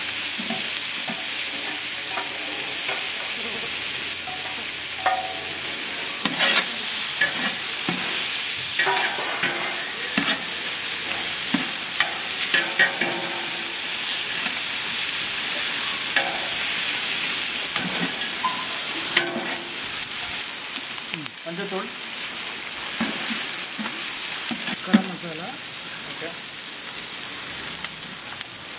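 Onions, tomatoes and curry leaves sizzling in hot oil in a wide metal pan. A spatula stirs and scrapes through them, making scattered clicks over the steady sizzle.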